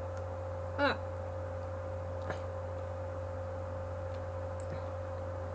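Steady electrical hum, a low hum with a fainter higher tone over it. There is a short falling voice sound about a second in and a faint click a little past two seconds.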